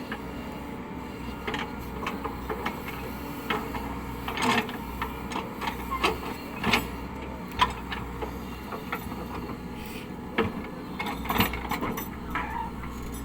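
CAT 307E2 excavator's diesel engine running steadily, with irregular sharp knocks and clanks over it.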